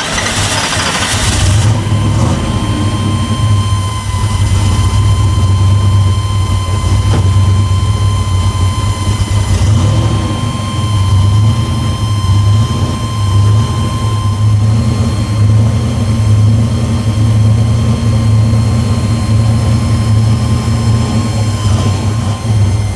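Car engine idling with a deep, uneven, pulsing rumble just after being started, with a short burst of louder noise at the very beginning.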